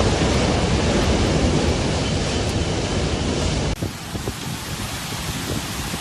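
Typhoon wind and driving rain as a dense, steady rush of noise. About two-thirds of the way through it cuts suddenly to a quieter rain with a few scattered knocks.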